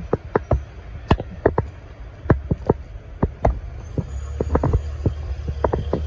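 Wheels of a passing CSX double-stack intermodal train clicking over rail joints, in irregular pairs and clusters over a low rumble. A steady low hum comes in about four seconds in.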